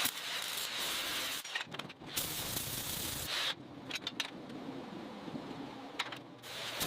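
Hissing spray in two main bursts, then fainter, with a few sharp clicks in the middle and one near the end.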